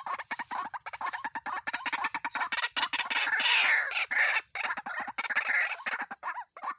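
White-breasted waterhens calling: a rapid run of harsh, repeated notes that grows louder and rougher about three to four seconds in.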